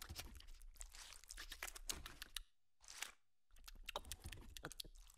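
Crispy fried chicken skin being torn off and chewed: rapid, crackly crunching and tearing, with a short pause about two and a half seconds in.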